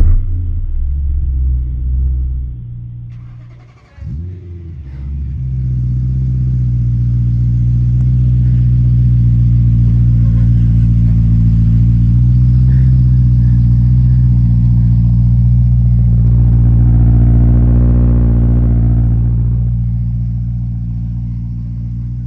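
BMW M3's V8 running through a Supersprint aftermarket exhaust, starting with a loud burst. The sound fades, comes back abruptly about four seconds in, and then settles into a steady low idle that swells briefly near the end.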